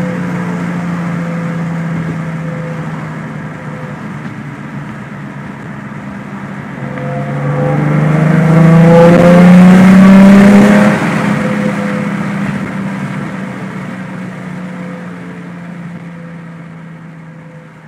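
Nissan 350Z's V6, fitted with long-tube headers and a Fast Intentions exhaust, heard from inside the cabin in third gear. It runs steadily at first, then accelerates hard from about seven seconds in, rising in pitch and loudness, and cuts back abruptly a few seconds later as the throttle closes. It then fades away as the car slows.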